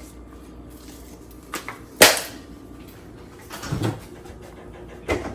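A few scattered household knocks and clunks, the loudest a sharp knock about two seconds in, with a duller thud near four seconds.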